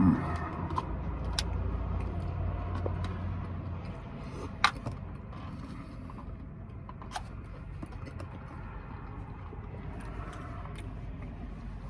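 Steady low hum of an idling car heard from inside the cabin, a little louder for the first few seconds, with a few sharp clicks, the clearest about halfway through.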